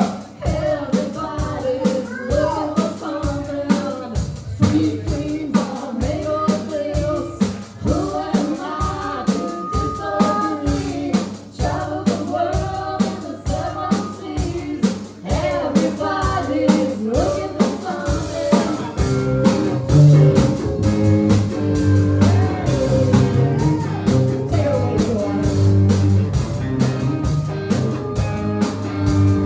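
Live band playing a blues-rock number with a steady drum beat and melodic guitar or vocal lines. The bass and low end come in heavier about two-thirds of the way through.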